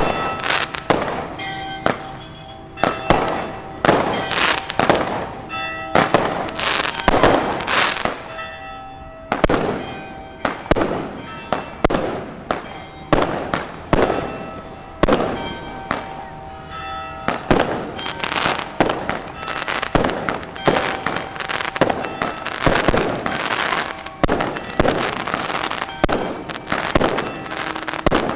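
Aerial fireworks shells bursting in a rapid, unbroken series of loud bangs, about one to two a second, each trailing off as it echoes.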